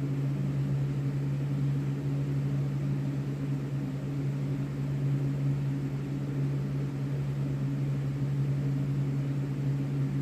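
A steady low hum with an even background hiss and no change in level.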